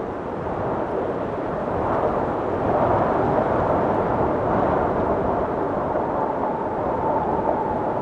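Blizzard wind blowing steadily in gusts, swelling about two to three seconds in, with a thin whistle joining past the middle.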